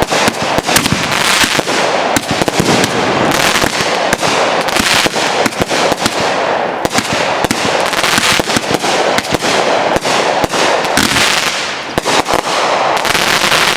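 Consumer fireworks going off without a break: a dense, fast run of sharp cracks and pops over a continuous crackling hiss.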